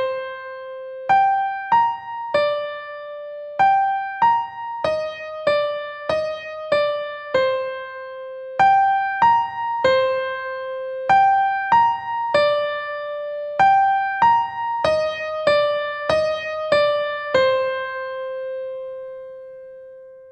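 Soft background music: an electric piano playing a slow melody of single notes, each struck and left to decay. The last note rings on and fades away near the end.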